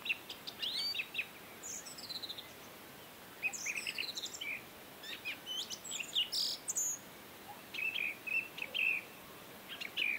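Small birds chirping and calling in short high chirps, with a few quick falling whistles.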